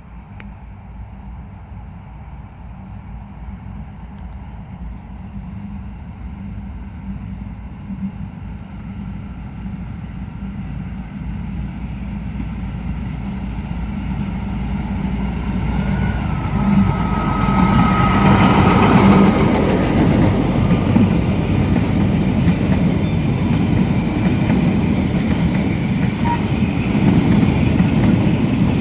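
Freight train hauled by a D4H diesel locomotive approaching and passing, growing steadily louder over the first two-thirds, with engine rumble and the clatter of wagon wheels on the rails, and a brief high tone near the loudest point.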